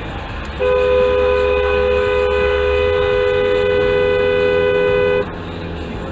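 Dual-tone car horn held steadily for about four and a half seconds, starting about half a second in and cutting off sharply, over the steady low rumble of the car on the road.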